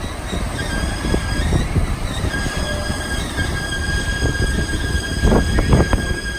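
Passenger train rolling, its wheels giving a steady high squeal over a heavy rumble of the cars, with a cluster of louder clunks about five seconds in.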